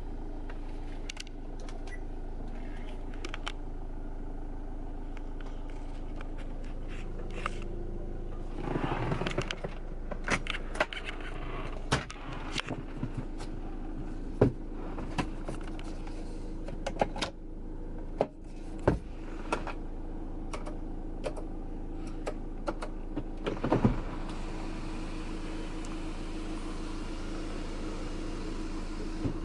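Steady hum of a GM Daewoo Winstorm's engine idling, with many scattered clicks and knocks from its switches and fittings being worked, and a short rustle about nine seconds in.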